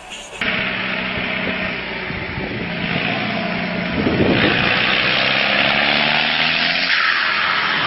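A heavy vehicle's engine running hard under a wash of mechanical noise, growing louder about four seconds in.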